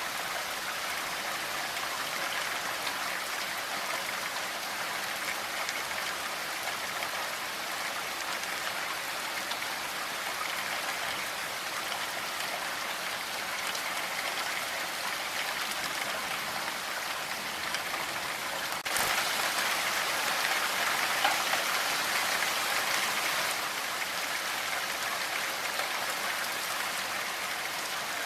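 Steady rain falling in an even patter. About two-thirds of the way through it abruptly gets louder for a few seconds, then drops back to its earlier level.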